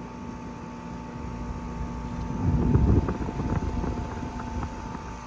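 A 4-ton Nordyne central air conditioner's outdoor condensing unit running: steady compressor hum under a slow condenser fan driven by a GE commercial fan motor, with a light rattle. A brief low rumble comes about halfway through.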